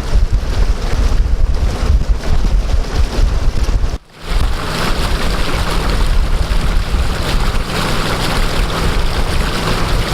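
Heavy wind buffeting the microphone, with a boat motor running steadily underneath. The sound cuts out briefly about four seconds in.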